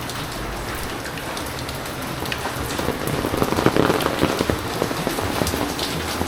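Rain falling on surfaces, a dense spatter of drop hits that grows louder about three seconds in.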